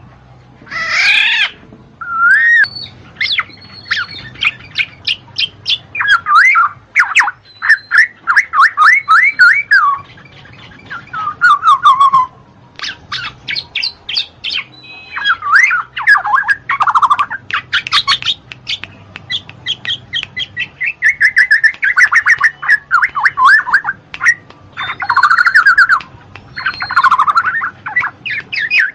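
Black-naped oriole (kepodang) calling: bursts of fast repeated short notes and brief gliding whistles, separated by short pauses.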